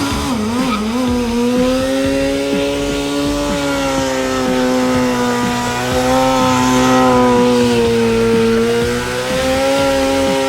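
Motorcycle engine running at high, steady revs, its pitch wavering slightly; it revs up quickly at the very start.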